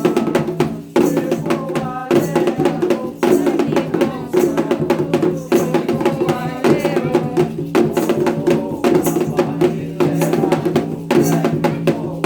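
Candomblé ritual music: hand drums played in a steady, dense rhythm while a group sings.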